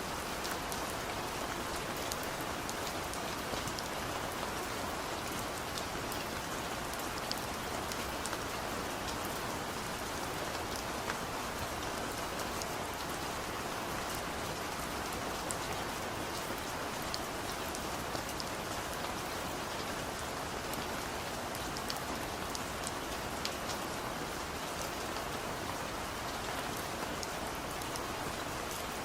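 Heavy rain falling steadily, a constant hiss with many individual drops ticking sharply on a surface.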